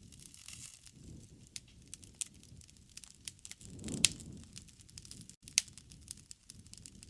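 Wood campfire crackling: scattered sharp pops and snaps over a low rumble of burning flames. The loudest pops come about four seconds in and again a second and a half later.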